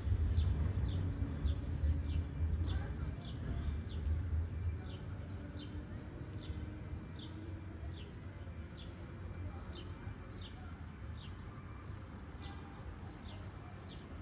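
A bird chirping steadily, about two short, slightly falling chirps a second, over a low outdoor rumble that is strongest in the first few seconds and then fades.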